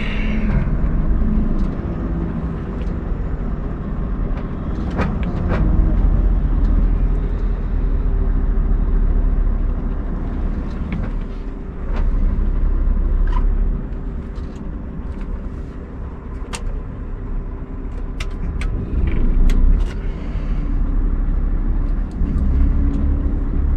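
Scania R580 truck's V8 diesel engine running steadily, with scattered sharp knocks and rattles.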